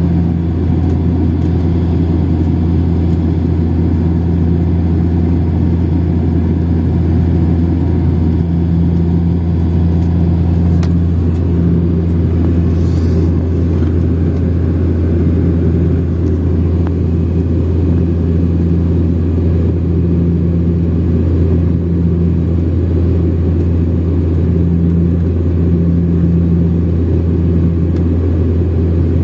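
Steady low drone of an airliner's engines heard inside the passenger cabin during the approach to landing, with a deep hum and a second, higher tone that swells and fades slightly.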